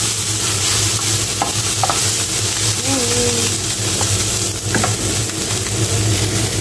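Strips of carrot, bell pepper and onion sizzling in oil in a frying pan while being stirred and tossed with a wooden spatula, with a few light knocks of the spatula against the pan, over a steady low hum.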